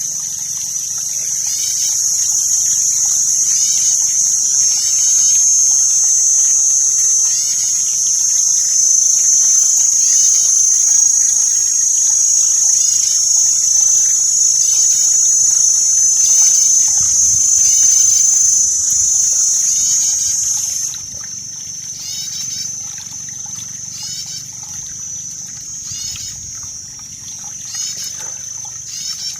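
Water trickling and splashing, under a steady high-pitched shrill that drops away suddenly about two-thirds of the way through, with many short rising chirps repeating throughout.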